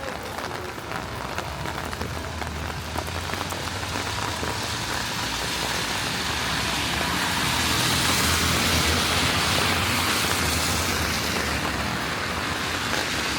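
Steady rain falling on a city street, with a spreading hiss and a low rumble that swell through the middle and ease a little near the end.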